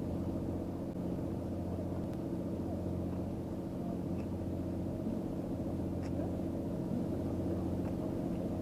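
A steady, low engine hum: a motor idling evenly with no change in pitch.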